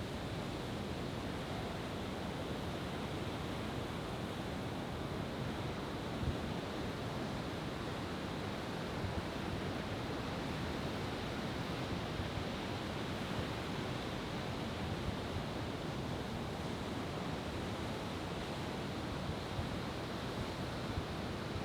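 Steady rushing noise of ocean surf, mixed with wind, with no firework bursts.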